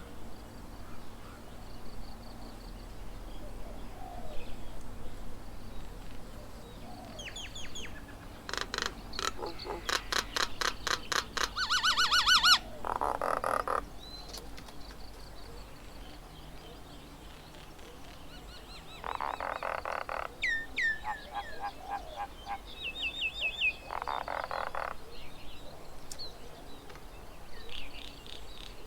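Birds calling around a garden bird table: short falling whistles, and a fast rattling series of calls that grows louder and cuts off abruptly about a third of the way in, with two shorter rattling bursts later.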